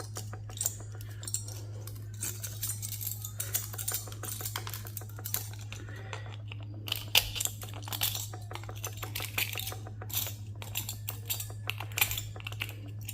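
Small metal parts and hand tools clicking and clinking as components are picked out of a server chassis during a teardown, with a few sharper knocks, over a steady low hum.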